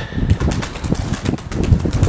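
Gusty wind buffeting the microphone in irregular low rumbling blasts, with light crackling on top.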